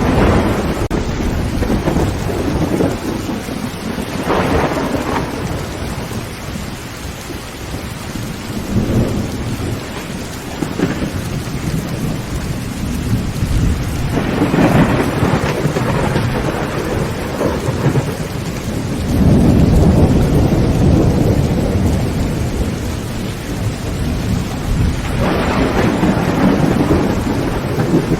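Heavy rain drumming on a tin roof as a steady hiss, with thunder rumbling again and again every few seconds; the loudest and deepest roll comes about two-thirds of the way through and lasts several seconds.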